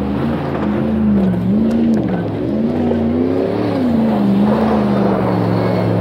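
Off-road 4x4's engine revving up and down again and again, then holding steady revs from about four seconds in, as the vehicle labours at a hard climb.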